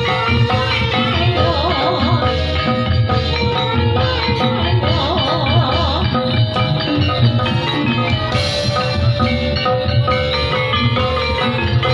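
Topeng Ireng dance accompaniment music: drums and mallet percussion playing a dense, steady rhythm, with a wavering melody line above it around two and five seconds in.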